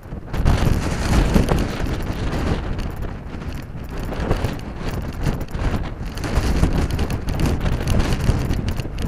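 Strong gusty wind buffeting the microphone, loud and rumbling, coming up suddenly at the start and easing a little near the end.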